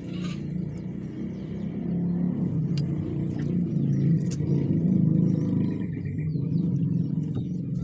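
Low, steady motor rumble, growing a little louder about two seconds in, with faint high-pitched bird chirps and a short held whistle above it.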